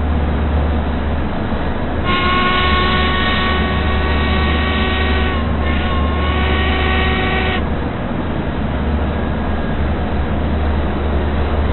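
Train running with a steady low rumble. About two seconds in, its horn sounds and is held for about five seconds with a brief dip in the middle, then cuts off.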